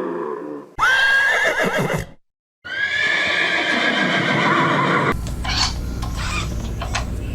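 Two horse whinnies, each a high wavering call, separated by a brief silent gap. A low moo fades out at the very start, and from about five seconds in a steady low hum with short repeated noisy bursts takes over.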